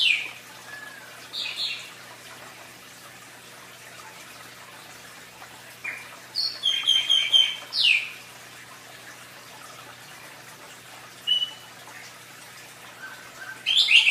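A bird chirping in short strings of high notes, with the longest string about six to eight seconds in and another starting near the end, over the steady splash of aquarium filter water pouring into the tank.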